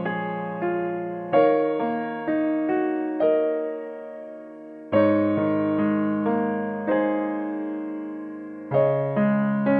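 Background piano music: slow, gentle chords and single notes that ring out and fade, with new chords struck every second or two.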